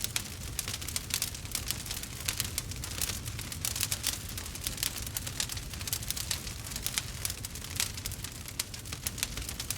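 Burning wood fire crackling and popping steadily, dense small snaps over a low rumble.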